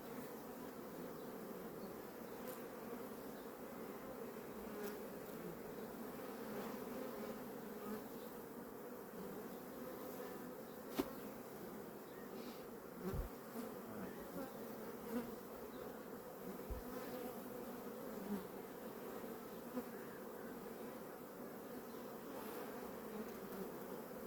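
Honeybee colony buzzing steadily around an open hive as bees are shaken off the frames, a continuous hum with a few light clicks and knocks from handling the hive.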